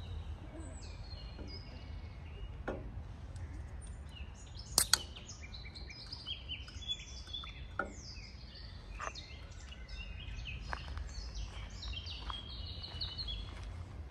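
Small birds chirping and twittering, many short, quick notes overlapping, busiest in the second half, over a low steady background rumble. A few sharp clicks, the loudest pair about five seconds in.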